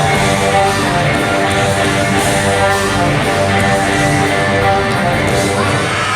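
Live band music played loud through a concert PA and recorded from among the audience, with steady sustained chords.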